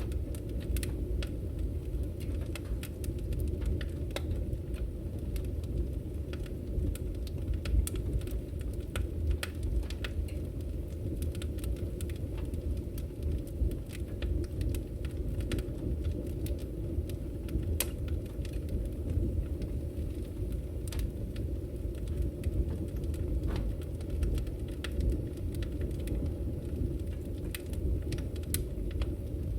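Wood fire burning in a fireplace: a steady low rumble of the flames with frequent irregular crackles and sharp pops from the burning firewood.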